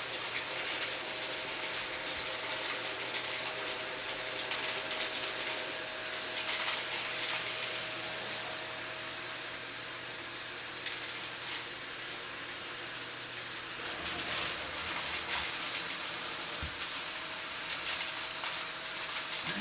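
Vacuum cleaner running steadily while sucking up crunchy debris, a dense crackle of particles over the motor's hiss and hum.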